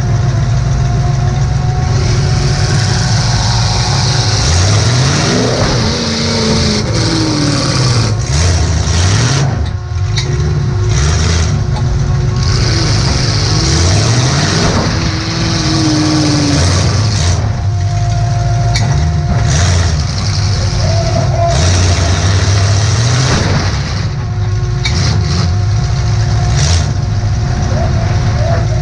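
Demolition derby car engine heard from inside the cabin, revving up and dropping back again and again, with occasional sharp knocks.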